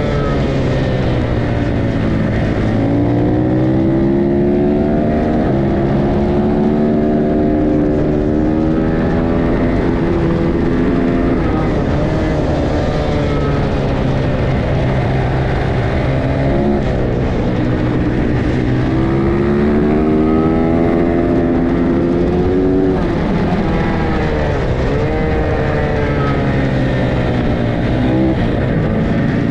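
Racing motorcycles at speed on a road course, their engines whining up and falling in pitch as they pass, about four such sweeps, over a constant drone of other bikes on the track.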